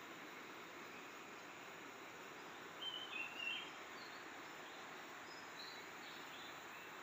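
Quiet forest ambience with a steady hiss, and a bird giving a quick run of short high chirps about three seconds in, followed by a few fainter, higher chirps.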